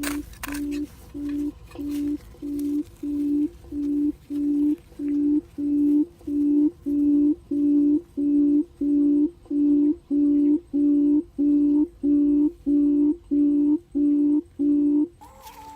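Recorded bird call played from an MP3 lure player: a long series of short, low hoots on one steady pitch, about two a second. They grow louder over the first several seconds, then hold even, and stop shortly before the end.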